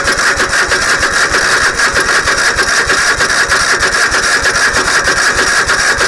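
White LT 946G lawn tractor engine being turned over by its electric starter: a loud, fast, steady chugging that does not catch and run.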